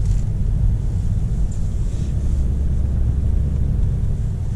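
Car's engine and road rumble heard from inside the cabin while driving: a steady low rumble.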